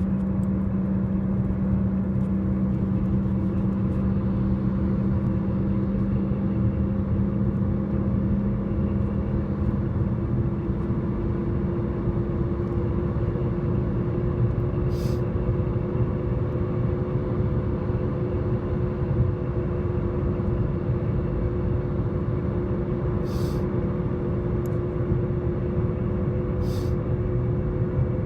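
Volkswagen Golf Mk5 1.4 FSI being driven, a steady droning tone over the rumble of the road and engine, rising slowly in pitch. The owner describes it as a scraping sound that starts as the car pulls away, gets loud from about 30 km/h and stays the same when the wheels are turned; its cause is unknown.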